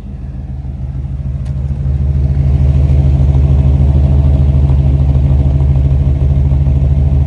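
1941 Chevrolet pickup's 350 V8 with dual exhaust idling steadily, growing louder over the first two seconds and then holding even.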